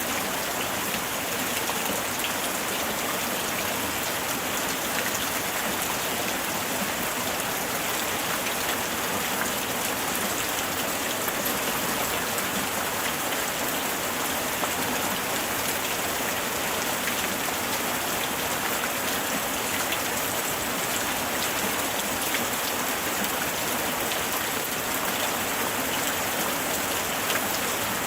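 Light rain falling steadily, a dense even hiss made of many small drop ticks.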